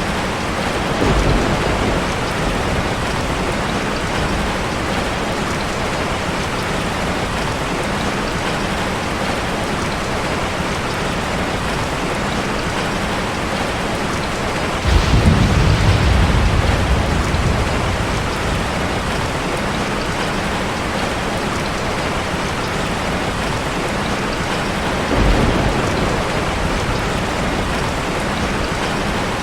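Steady rushing of a waterfall, with three low rumbles that swell and fade, the loudest about halfway through.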